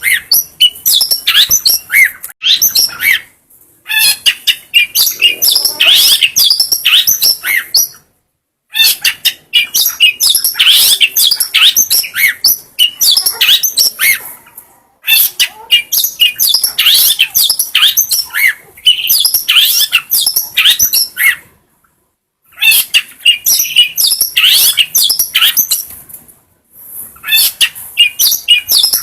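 Long-tailed shrike (cendet) singing: rapid, varied, high-pitched chattering in phrases of several seconds, broken by brief pauses every five to seven seconds.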